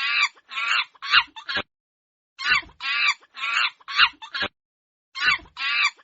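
Monkey calls: a short run of high, chattering calls, repeated about every two and a half seconds.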